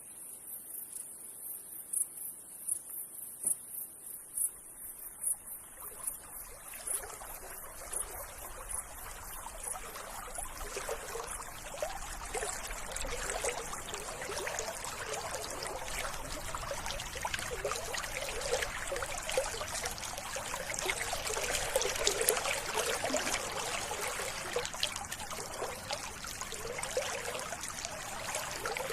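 Running water trickling and babbling, fading in about six seconds in and growing louder. Before it comes in, insects chirp high and evenly, about three pulses a second.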